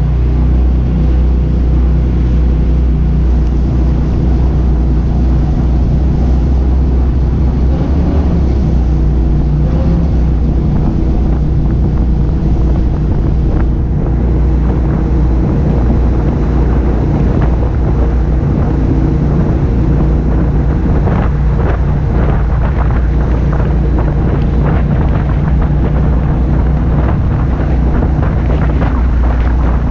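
Jet boat's engines running steadily at speed, a constant low drone, with wind buffeting the microphone and growing rougher in the second half.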